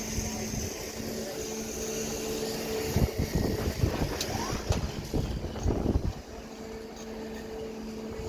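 Excavator engine running with a steady drone, with a stretch of irregular knocks and clatter from about three to six seconds in.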